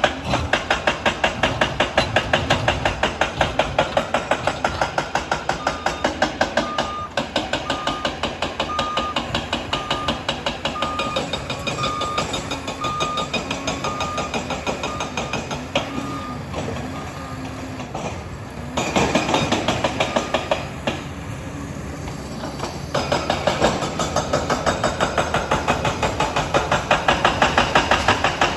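Liebherr 746 crawler dozer working: the diesel engine runs under a fast, even clatter from the steel tracks. From about six seconds in until about sixteen seconds in, its reverse alarm beeps at a steady pace as it backs up.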